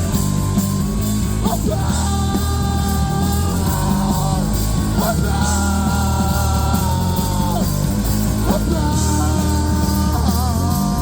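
Live punk-style rock band playing loudly, with a singer's long held notes over the full band.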